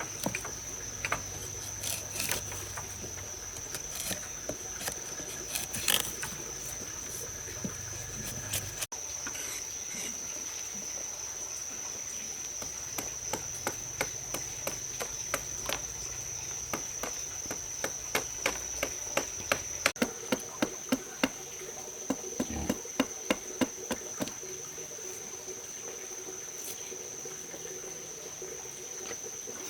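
A steady high-pitched insect trill, from crickets, runs throughout. Over it come sharp knocks, sparse at first and then several a second in the second half, which are the loudest sounds.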